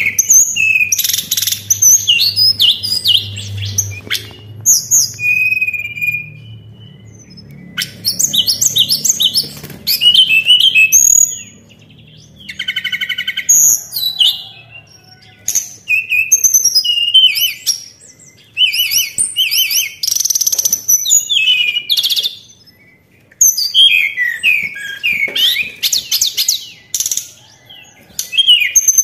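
Tledekan, a Cyornis blue flycatcher, singing: repeated bursts of quick, high-pitched chirps and short whistled notes with brief pauses between phrases, and one buzzier, lower call about halfway through.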